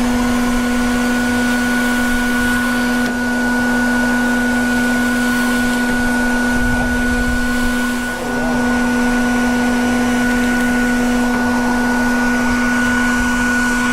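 A bee vacuum's motor running steadily with a constant hum and suction noise while it draws a honey bee swarm off a limb. Its note dips briefly twice, about three seconds in and about eight seconds in.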